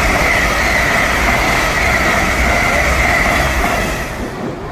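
Class 91 electric intercity train running through the station at speed without stopping: loud, steady wheel and rail noise with a high ringing tone. It fades away about four seconds in.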